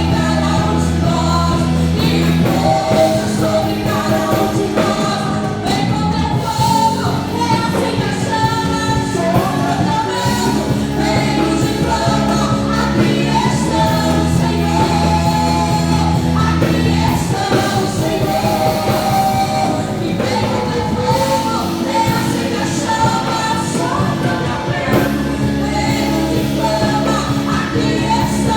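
A praise band playing a worship song with singing, over sustained bass notes.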